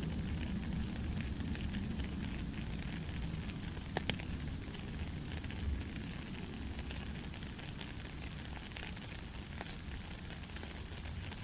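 Steady white-noise sleep sound, an even deep hiss with faint crackling throughout and a sharp click about four seconds in.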